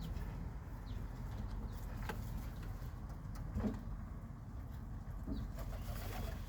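Pigeons cooing, two short low coos about three and a half and five seconds in, over a steady low city rumble.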